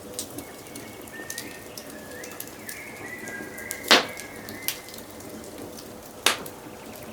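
Wood fire crackling steadily, with two loud pops about four and six seconds in, and birds whistling in the background during the first half.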